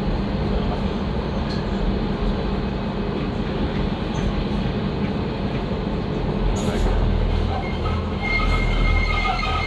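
Docklands Light Railway train running on the rails with a steady rumble of wheels and motors. About eight seconds in, a thin high wheel squeal joins it, as the wheels grind against the rail.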